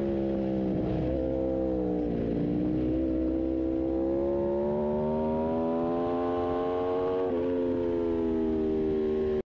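Aprilia RSV4 1100 Factory's V4 engine at speed: the revs fall for the first couple of seconds, then climb steadily under acceleration, with a sudden drop of an upshift about seven seconds in.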